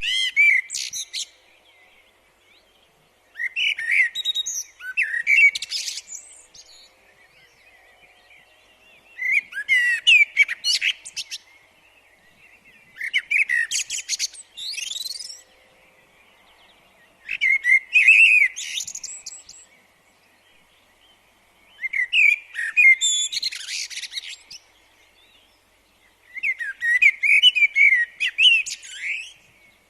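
A songbird singing in short, high warbling phrases of two to three seconds each, about seven of them, roughly every four seconds, with brief quiet pauses between.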